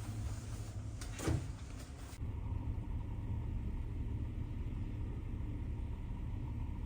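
Steady low hum and rumble of a large car ferry's engines heard inside the ship. A single short clack or swish comes about a second in.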